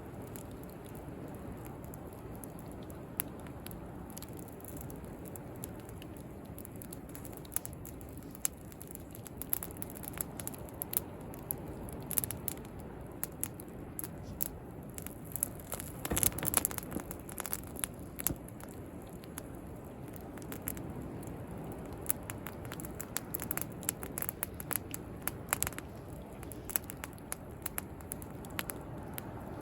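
Wood bonfire crackling, with irregular sharp pops and a dense run of crackles about 16 seconds in, over a steady wash of sea waves.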